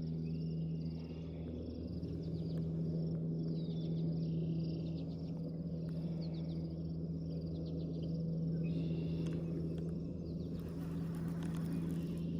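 Boat motor running with a steady low hum, with faint bird chirps over it.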